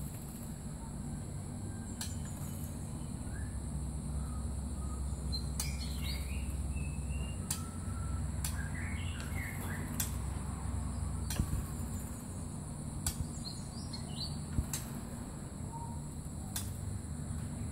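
Scattered bird chirps and short calls, with a few sharp ticks spaced through and a steady high insect drone behind.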